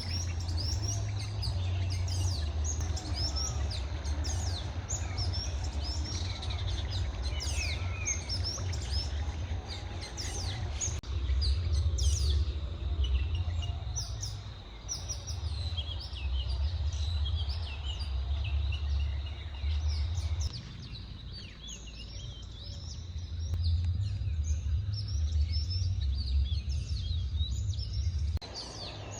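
Many wild birds chirping and singing together in a forest dawn chorus, over a steady low rumble. The background shifts abruptly a few times.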